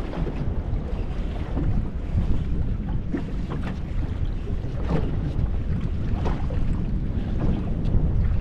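Wind buffeting the microphone over water lapping against a boat's hull: a steady low rumble with scattered short splashes and knocks.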